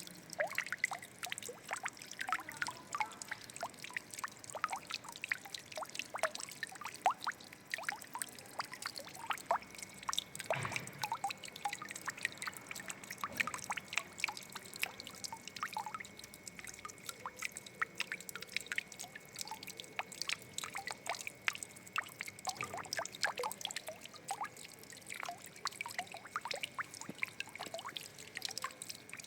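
Water trickling and splashing, a continuous stream of small irregular drips and plinks.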